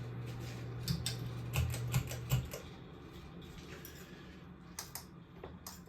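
Scattered light clicks and taps, a few close together in the first couple of seconds and two more near the end, over a steady low hum that cuts off about two and a half seconds in.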